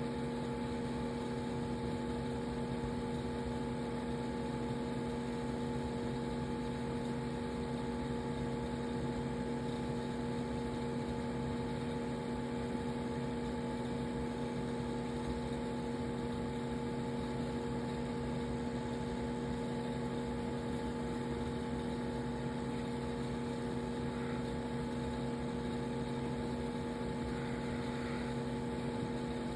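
Steady mechanical hum of aquarium equipment, several constant tones over a light hiss, unchanging throughout.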